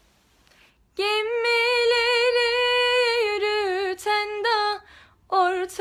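A woman singing with no other instrument heard. After about a second of near silence she holds one long note that breaks into quick ornamental turns, pauses briefly, then starts the next phrase near the end.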